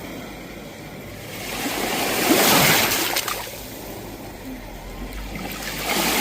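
Sea waves washing onto the shore: one wave swells and breaks about two seconds in, then fades, and the next begins to build near the end.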